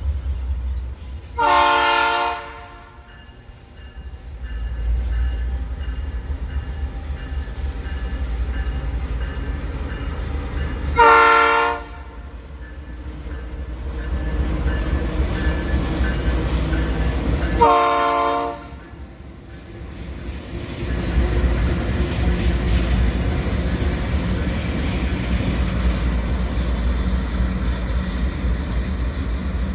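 Freight-train locomotive horn sounding three separate blasts of about a second each, over the steady low rumble of the train.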